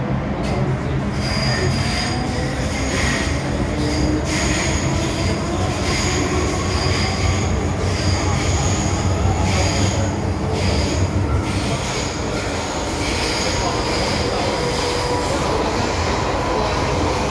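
MTR M-Train electric multiple unit running on the metro, its wheels squealing on and off against the rails over a steady rumble. A fainter motor tone glides slowly in pitch underneath.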